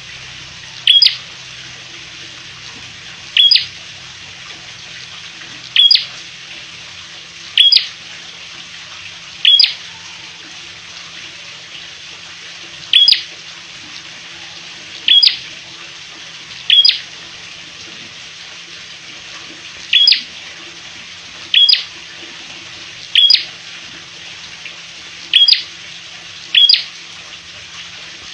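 A caged prenjak, a small rufous-headed songbird, giving single short, sharp call notes, one every one to three seconds, over a steady hiss.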